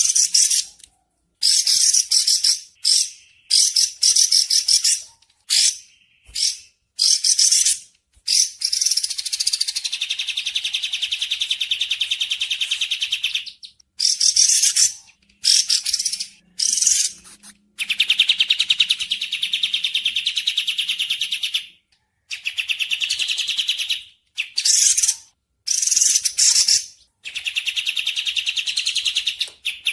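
Bird calls: high-pitched, rapid trills in repeated bouts, some brief and some held for several seconds, with short pauses between them.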